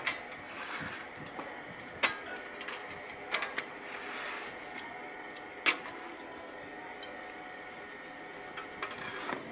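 Scattered sharp clicks and knocks of hard parts being handled, with short scraping rustles in between.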